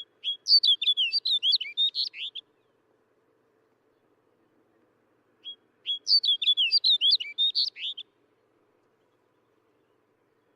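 Snow bunting singing: two short song phrases of quick warbled, rising and falling notes, the second starting about halfway through.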